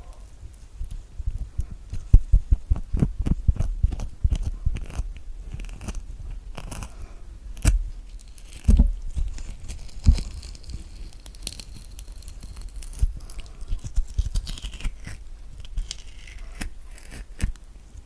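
Close-miked spoon scooping soft kiwi flesh: wet scrapes and squishes with irregular taps and knocks, the loudest about two seconds in and again near nine seconds.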